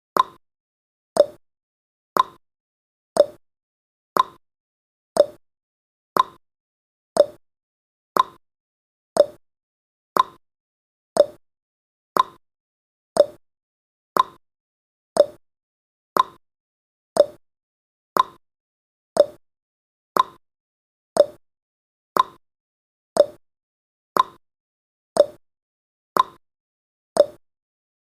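A countdown timer's ticking sound effect, one short, sharp tick every second at a perfectly even pace, like a clock.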